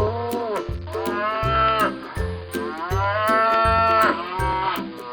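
Domestic cow mooing: three long, drawn-out moos in a row, cut off abruptly near the end. Children's music with a steady beat plays underneath.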